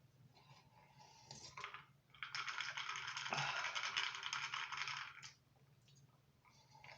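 Close-miked crunching of thin, crispy pizza crust being chewed: a dense crackle of many small cracks lasting about three seconds, from about two seconds in, with a few fainter clicks before and after.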